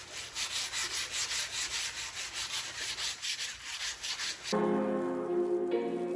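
Quick back-and-forth rubbing strokes, about five a second, of sandpaper worked by hand over wood. They stop about four and a half seconds in, when music with bell-like tones begins.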